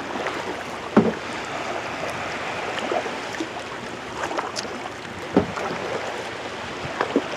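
Kayak paddling: a steady wash of water splashing and sloshing from paddle strokes, with a few short sharp splashes or knocks about a second in, around five seconds in and near the end.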